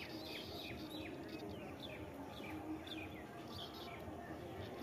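A bird calling over and over with short, sharp chirps that slide downward in pitch, two or three a second, faint against outdoor background noise.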